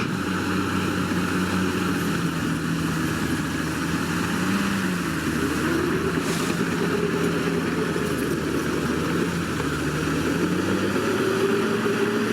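Komatsu D61PX bulldozer's diesel engine running steadily, its pitch rising briefly as it revs, about five seconds in and again near the end.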